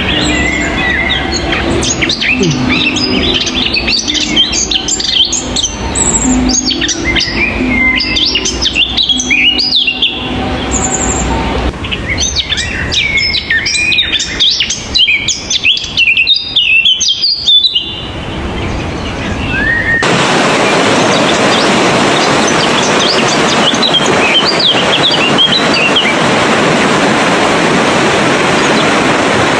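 Many small songbirds chirping and singing at once, a dense run of quick, high twittering notes and short whistles, with a few low held notes underneath in the first half. About two-thirds of the way in, a steady rushing noise takes over and the birdsong continues fainter behind it.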